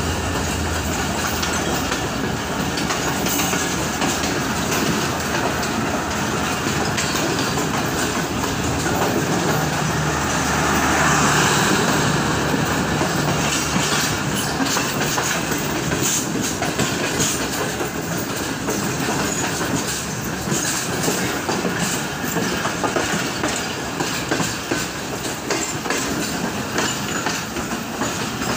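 Passenger train running along the line, heard from on board: a steady rumble of wheels on rail with clickety-clack over the rail joints, growing more clicky in the second half.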